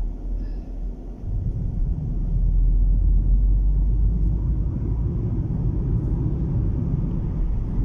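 Low, steady rumble of a car on the move, getting louder about a second in.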